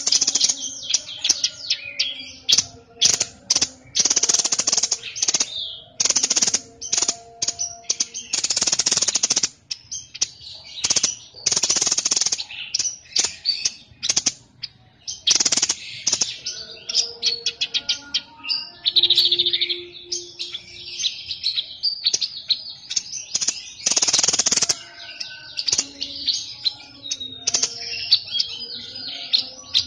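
A songbird kept by Indonesian bird-keepers under the name "sniper" singing loudly in rapid, harsh bursts of song up to about a second long, over and over with short pauses and brief chirps between.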